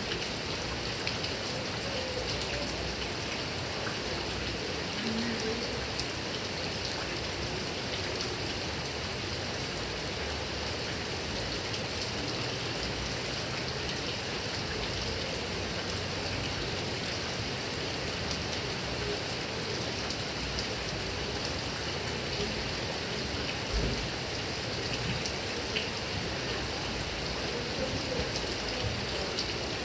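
Heavy rain falling steadily on grass and palm leaves, an even hiss with scattered drop ticks. A single brief low thump about three-quarters of the way through.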